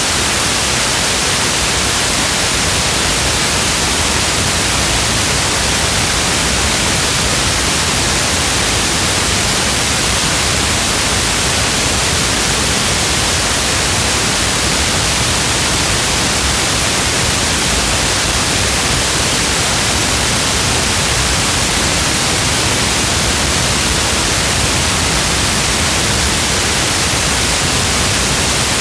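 Steady rain sound: a loud, even, unchanging hiss like static, with no separate drops, gusts or thunder standing out.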